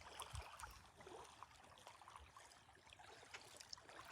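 Near silence: faint outdoor background with a few soft scattered ticks.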